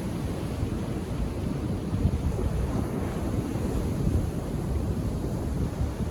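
Ocean surf washing onto a beach: a steady rush of waves with small swells in loudness, with wind buffeting the microphone.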